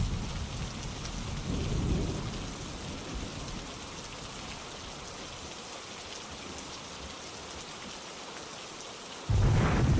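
Steady rainfall with thunder rumbling low in the first few seconds and fading off, leaving the even hiss of rain. The rumble comes back suddenly and louder about nine seconds in.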